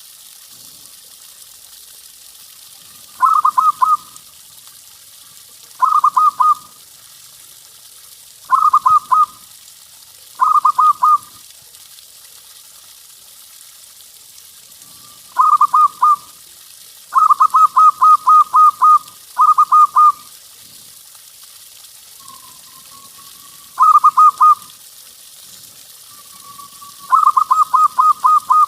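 Zebra dove (perkutut) cooing: short phrases of rapid, staccato notes repeated every two to three seconds. Some phrases are longer runs of eight or so notes, and a few start with a soft rising note.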